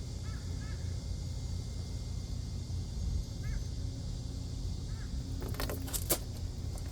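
A few short, arched calls from a small animal, spaced seconds apart, over a steady low rumble, with a cluster of sharp clicks near the end.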